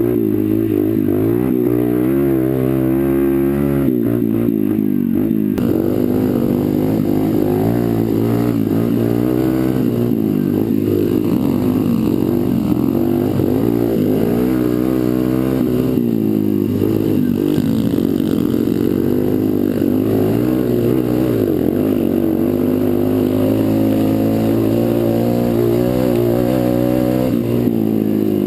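Pit bike engine revving up and down as it is ridden off-road, its pitch rising and falling every second or two with the throttle and gear changes.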